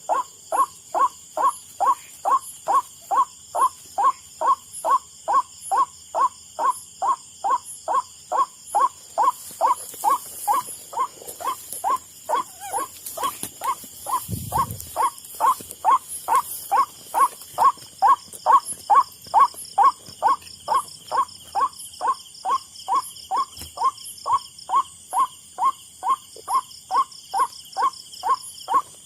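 White-breasted waterhen 'kuak-kuak' call repeated over and over, about two and a half short falling notes a second, very evenly spaced, as from a loudspeaker bird caller used as a lure. Insects keep up a steady high whine and pulsing trill underneath, and a single low thump comes about halfway through.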